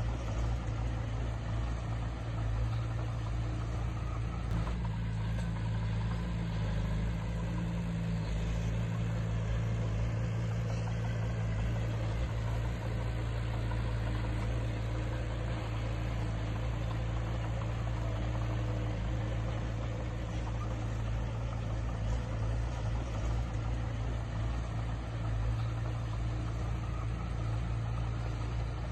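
Diesel engine of heavy earthmoving equipment running steadily at an even low drone, without revving up or down.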